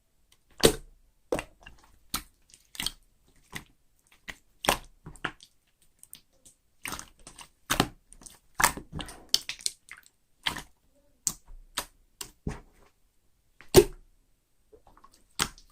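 Clear slime being handled, giving irregular sharp clicks and pops about one or two a second, the loudest near the start and near the end.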